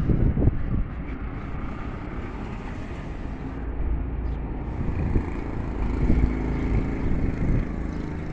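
Steady low rumble of a vehicle, with road or engine noise and a faint hum that comes in during the second half.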